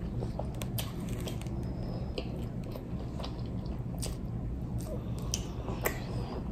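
A person chewing a mouthful of chaffle sandwich, with scattered small crunches and mouth clicks over a steady low hum.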